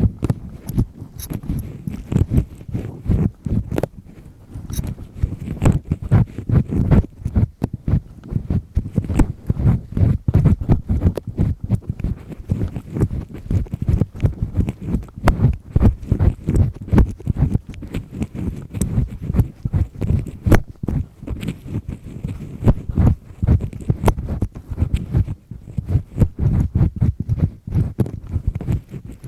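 Double-disc earpick scraping and rubbing firmly in an ear canal, heard very close up: fast, irregular scratching strokes with small clicks, going on without a break.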